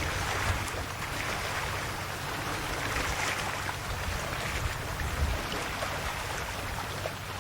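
Calm sea waves washing and lapping at the shore: a continuous wash of water that swells gently every two or three seconds, with a faint steady low hum underneath.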